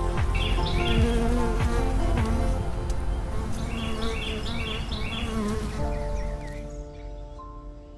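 Insect buzzing with a wavering hum, joined by two bursts of quick high chirps, over soft background music. The buzz stops about six and a half seconds in, leaving the music.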